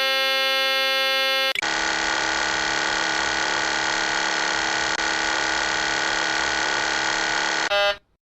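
Aircraft cockpit warning sounds: a steady electronic warning tone for about a second and a half, then a continuous harsh buzzing rattle for about six seconds that cuts off near the end.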